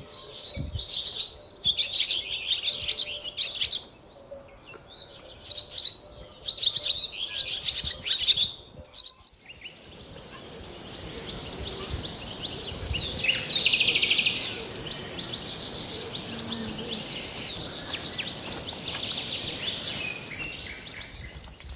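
Birds singing in repeated chirping phrases for the first half. After a sudden change about nine seconds in, a steady high hiss runs underneath scattered bird calls.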